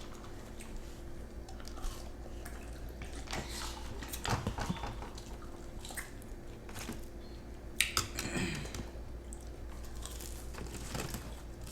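People biting into and chewing spicy breaded chicken nuggets close to the microphone, with scattered short clicks and rustles.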